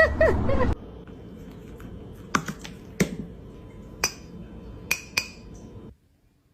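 A few sharp, separate clicks or taps, five in all, spread over about three seconds against a low background hiss. A short pitched call is heard right at the start.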